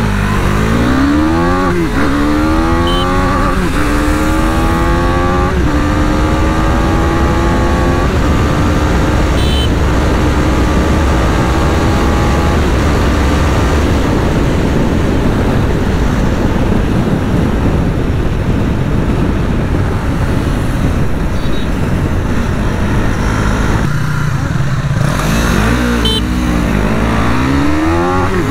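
KTM 390 Duke's single-cylinder engine at full-throttle acceleration, revving up through several quick upshifts, each dropping the pitch, in the first eight seconds or so. It then holds high speed under heavy wind rush. Near the end it pulls hard again from low speed.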